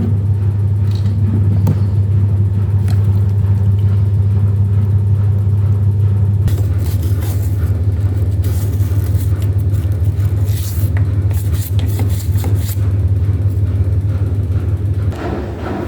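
A machine running with a loud, steady low hum that drops away about fifteen seconds in. Through the middle there is a stretch of irregular higher clatter or hiss.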